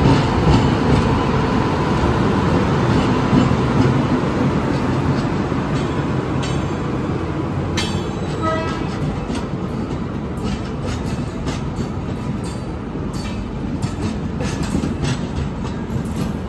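Indian Railways express train passing at close range, its electric locomotive and then its coaches rolling by in a steady rumble. From about six seconds in, the wheels clack over the rail joints, and a brief high tone sounds a little past the middle.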